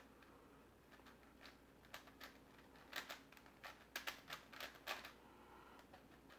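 Plastic twisty puzzle being turned quickly by hand: faint clicking of its layers snapping round, scattered at first, then a rapid run of clicks about three to five seconds in.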